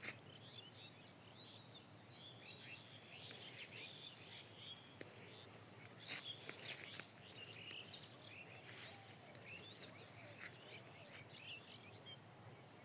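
Faint outdoor insect chorus: a steady, high-pitched trill from crickets or similar insects, with many short bird chirps scattered through it.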